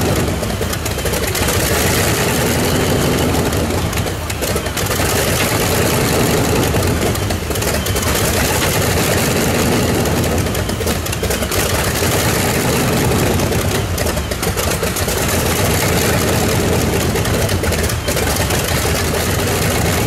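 Loud, steady engine noise of a tractor-pulling machine running, dipping briefly about four seconds in and again around fourteen seconds in.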